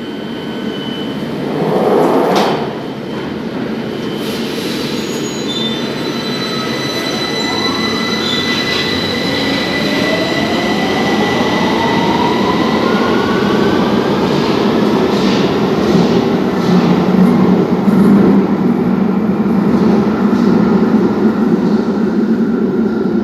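Victoria Line 2009 Stock tube train pulling away from the platform. Its traction motors whine and rise steadily in pitch as it accelerates, over a rumble of wheels on rail that grows louder. A short burst of noise comes about two seconds in.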